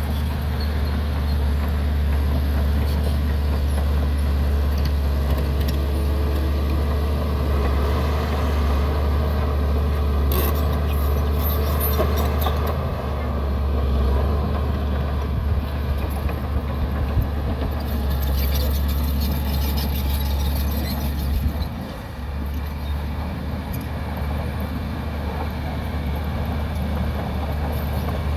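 Shantui DH17C2 bulldozer's diesel engine running steadily with a low drone, with scattered metallic clanks. The engine note drops briefly about two-thirds of the way through, then picks up again.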